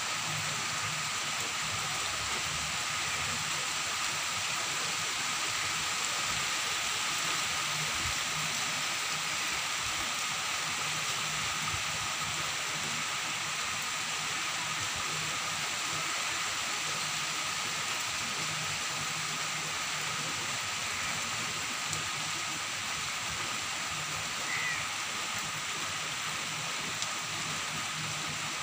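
Heavy rain falling steadily on trees and a road, an even, unbroken hiss.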